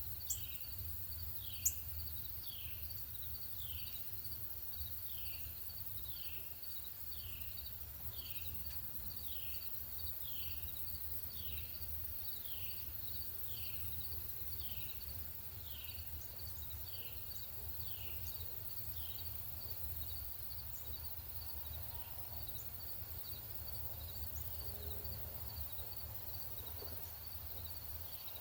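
Northern cardinal singing a long series of repeated down-slurred whistles, about one a second, which stops about two-thirds of the way through. A steady low rumble runs underneath.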